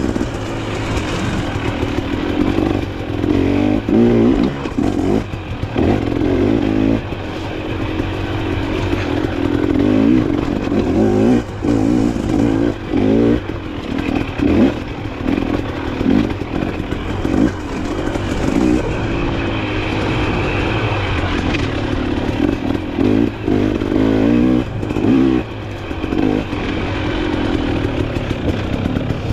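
Dirt bike engine under hard riding, its pitch repeatedly rising and falling as the throttle opens and closes, with clattering over rough ground.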